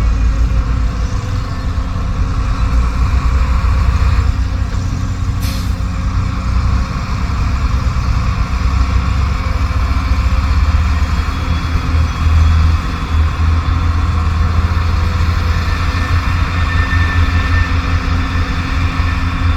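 Heavy diesel engine running steadily with a low, pulsing drone. A brief sharp click comes about five and a half seconds in.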